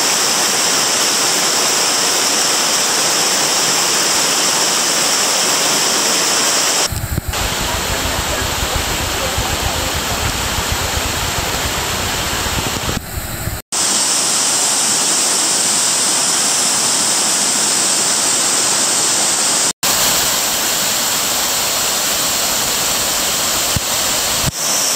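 Loud, steady rushing of falling water, like a waterfall heard up close, with abrupt changes about 7, 14 and 20 seconds in; between about 7 and 13 seconds it has more low rumble.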